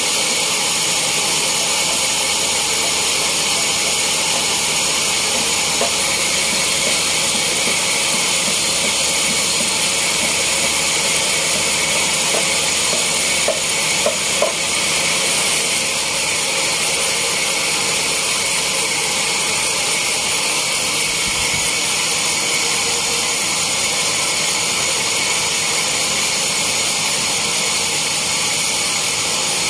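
Sawmill saw running steadily, an even, loud, high-pitched hiss, with a few light knocks about halfway through.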